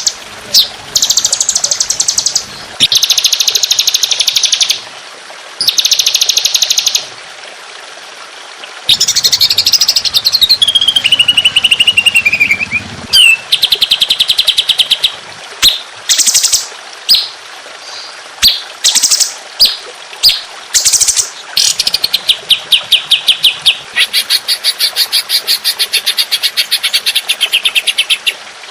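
Songbird calls from a masteran training track: bursts of fast, repeated high notes ('tembakan'), each lasting a second or two with short gaps between. Near the middle comes a trill that falls in pitch, and near the end a long unbroken run of rapid notes.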